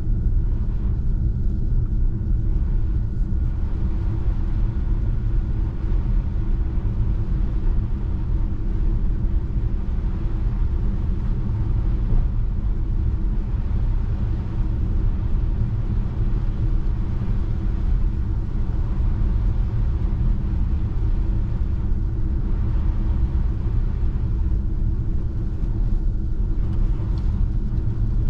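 Steady low road rumble from a Tesla Model 3 electric car driving on a snow-covered road, with a faint steady hum above it.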